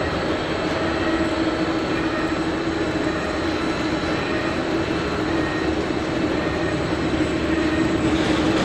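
Boeing 747-400 jet engines running loud and steady, with a steady hum under the engine noise.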